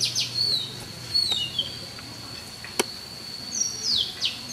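Songbird singing: short phrases of quick, falling high notes near the start and again near the end. A steady high-pitched tone runs underneath, and there is one sharp click about three seconds in.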